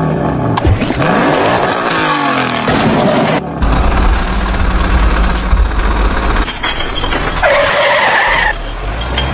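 Vehicle engine sounds, revving with the pitch sweeping up and down over the first three seconds, then a steady low engine rumble, changing again about seven seconds in.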